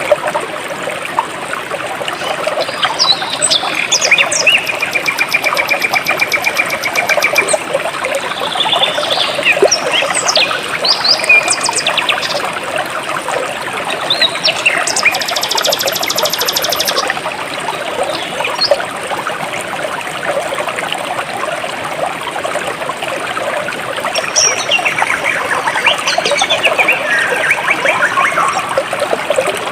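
Jungle stream flowing steadily, with birds calling over it: a trill a few seconds in, scattered chirps, a high buzzing trill around the middle, and a run of falling calls near the end.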